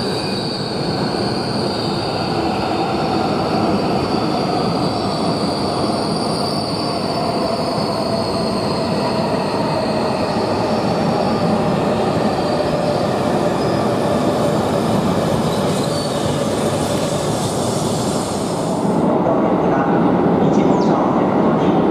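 Shinkansen bullet train rolling slowly over curved track, its wheels giving a steady high squeal over the rumble of the cars. About 19 seconds in the sound cuts abruptly to a louder platform ambience without the squeal.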